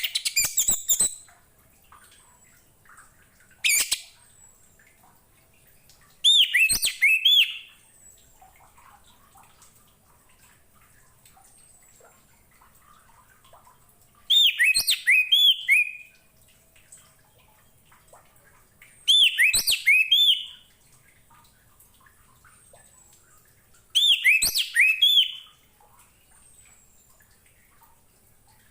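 Orange-headed thrush singing: about six short phrases of quick rising-and-falling whistled notes, separated by pauses of a few seconds.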